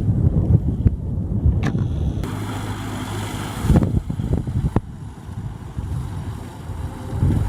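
Kubota M6040SU tractor's diesel engine running, with wind buffeting the microphone and a few short clicks or knocks.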